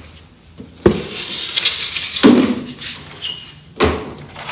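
Knocks and clinks of parts being handled during a car restoration: three sharp knocks about a second and a half apart, with lighter clinking and a brief metallic ring between the second and third.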